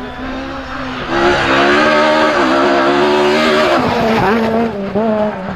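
Rally car engine at high revs, much louder from about a second in as the car comes close, then dropping and rising in pitch several times near the end as the driver lifts and shifts gear.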